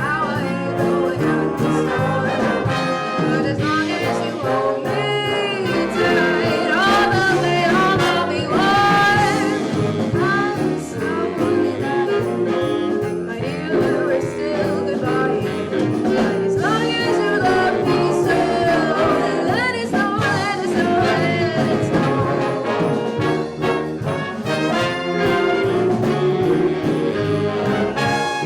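A school ensemble's brass section, trombones and trumpets, playing a piece of music at a steady, full volume.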